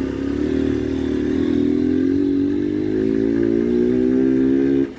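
Motorcycle engine running under way, its pitch rising slowly as it pulls, with a brief drop just before the end.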